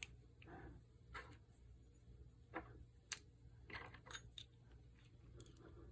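Faint, scattered clicks and light knocks of small metal spray-gun parts being handled and set down, about half a dozen over a few seconds.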